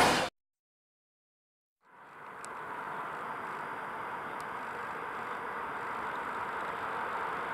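A loud sound cuts off abruptly at the start, followed by a second and a half of silence. Then the steady, distant rumble of a ChS4 electric locomotive and its passenger train fades in, growing slowly louder as the train approaches.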